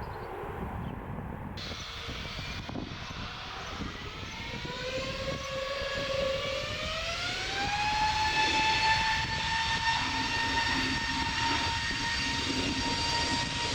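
Jet airliner engines spooling up: a whine rises in pitch over a few seconds, then holds steady over a broad rumble that grows louder, as the engines are set to takeoff thrust.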